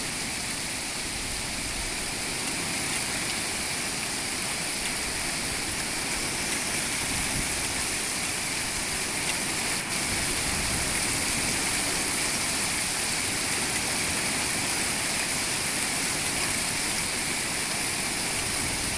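Rain and hail from a storm pouring down, a steady dense hiss.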